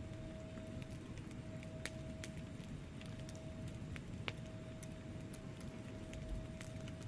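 Wood fire burning in a fireplace: a steady low rumble of flames with scattered sharp crackles and pops from the logs, the sharpest just past the middle. A faint steady tone runs underneath.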